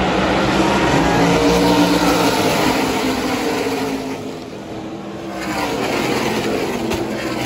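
NASCAR stock-car V8 engines at full throttle passing on the track, their pitch falling as the field goes by; the sound fades briefly, then swells again as more cars come past about six seconds in.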